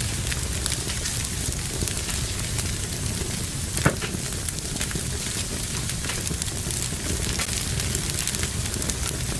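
Fire burning in a fireplace, crackling with many small scattered pops over a steady low rumble of the flames. One louder pop stands out about four seconds in.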